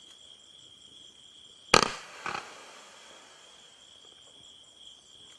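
A Neon Fireworks Red Comet (Fan) 500g cake fires one volley of comet shots about two seconds in: a loud sharp report followed by a quieter one about half a second later. Crickets chirr steadily throughout.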